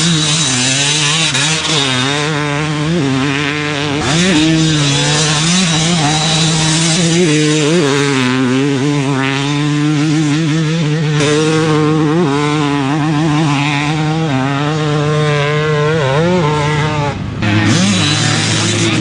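Yamaha YZ250's single-cylinder two-stroke engine revving up and down over and over as the motocross bike is ridden, with a brief dip near the end.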